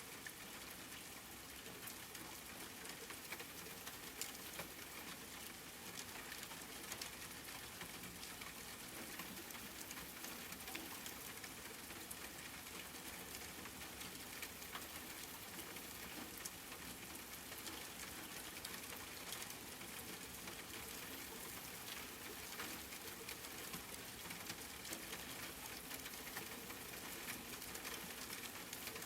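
Steady rain falling, with scattered individual drops ticking sharply on a hard surface.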